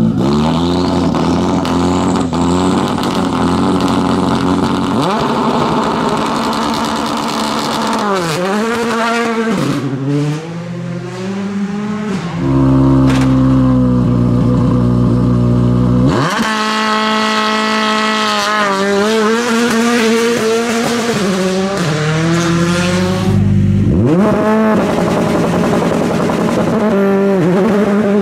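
Rally car engines at a stage start: held at high revs around the middle, then accelerating hard away, the pitch climbing and dropping with each gear change, several times in a row.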